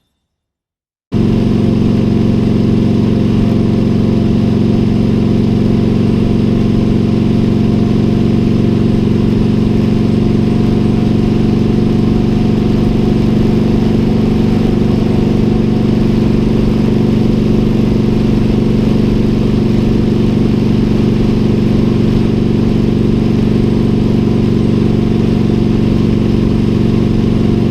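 Motorcycle engine running at a steady, unchanging speed, cutting in abruptly about a second in.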